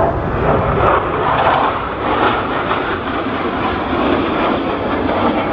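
Blue Angels F/A-18 jet engines, a loud steady rush of jet noise with a low rumble underneath.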